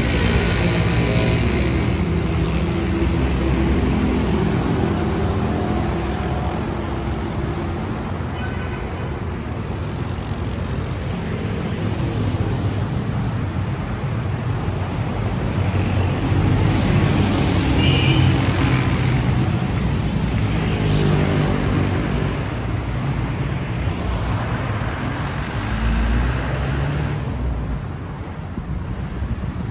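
City street traffic: cars and heavier vehicles passing with engines running and tyre noise, swelling and fading as each goes by.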